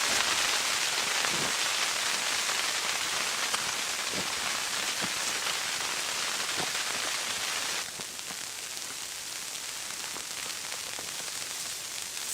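Steady hiss and patter of precipitation striking tent fabric, with a few faint ticks; it drops noticeably in level about eight seconds in.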